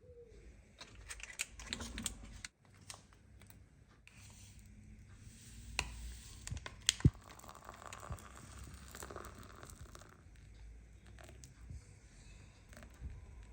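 Close handling sounds: rustling and crinkling with scattered light clicks and knocks, broken by a brief dropout about two and a half seconds in.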